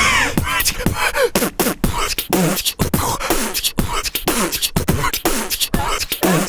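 Beatboxing: a fast, unbroken stream of sharp mouth clicks and beats mixed with short swooping pitched vocal sounds.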